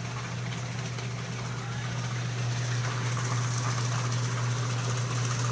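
Panasonic Aquamax washing machine running in its wash cycle with a steady motor hum, working normally after its faulty gearbox was repaired.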